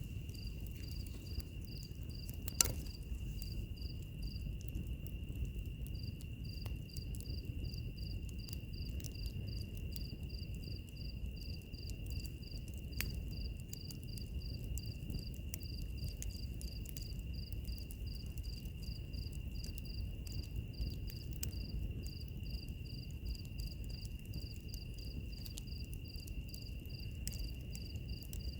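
Insects chirping: one steady high trill, and a higher pulsing chirp about three times a second that pauses briefly about five seconds in. Under it a wood fire crackles with a low rumble and scattered clicks, with one sharp pop about two and a half seconds in.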